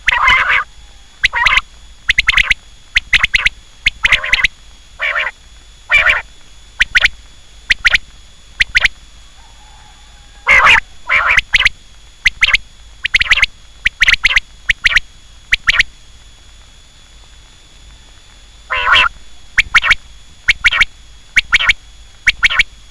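Quail calling: short, sharp call notes repeated about one to two a second in runs, with pauses of a few seconds between runs. A faint steady high whine runs underneath.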